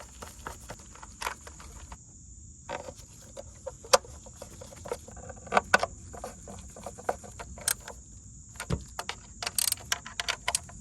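Irregular metallic clicks and taps as 10mm acorn nuts are fitted back onto the engine cover studs and tightened by hand tool, with a quick run of clicks near the end.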